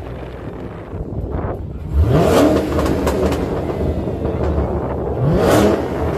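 Car engine accelerating hard twice, its pitch rising steeply about two seconds in and again near the end, over a steady low engine rumble.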